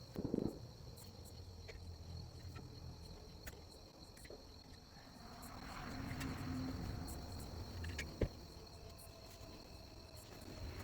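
Crickets chirping steadily, with a couple of sharp knocks, one near the start and one about eight seconds in, and a broad rushing sound that swells and fades in the middle.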